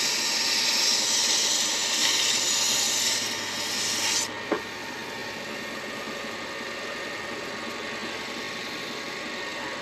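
Sandpaper rubbing on a driftwood and deer antler pen blank as it spins on a midi lathe: a loud, even hiss that stops abruptly about four seconds in. A single click follows, then a quieter steady hum.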